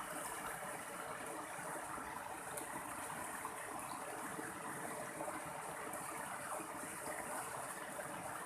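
Mountain stream water rushing and splashing over rocks in a steady, even flow.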